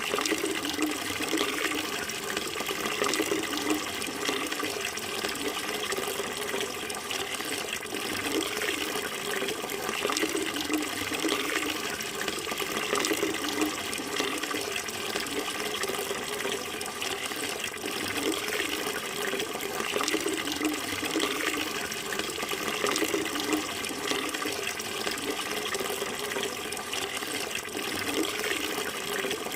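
Running water flowing steadily in an even, continuous rush.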